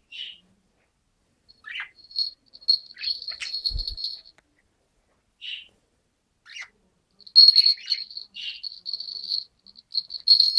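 Small birds chirping with short separate calls, then a fast high buzzy trill about two seconds in and again, longer, from about seven seconds on. A soft knock comes near the four-second mark.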